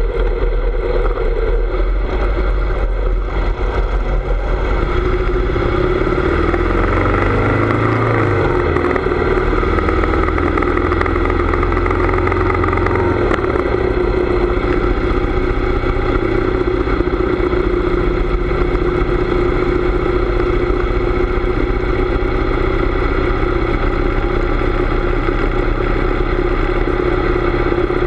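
Harley-Davidson V-twin motorcycle engine running under way; its note shifts a few seconds in, then holds steady.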